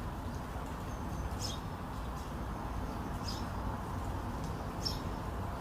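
Three short high chirps, spaced about two seconds apart, from a small bird calling over a steady low background rumble.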